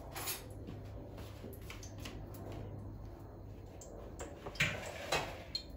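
Kitchen things being handled: scattered light clicks and knocks, with two louder knocks about four and a half and five seconds in.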